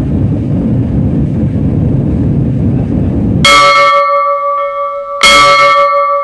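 A steady jet-engine rumble cuts off abruptly about three and a half seconds in. Two loud struck bell-like chimes follow, about a second and a half apart, each ringing on with several clear overtones.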